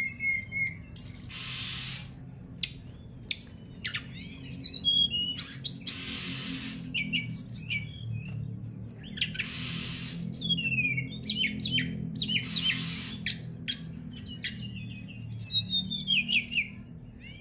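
Caged fulvous-chested jungle flycatcher (sikatan rimba dada coklat) singing a fast, varied string of sharp chirps and short whistled slurs, practising its song. Some harsh, hissing notes are mixed in, and a low hum runs underneath.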